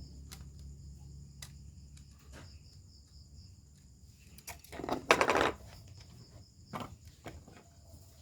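Crickets chirping steadily in the background, with scattered small clicks of handling. About five seconds in comes a brief, louder rustling scrape.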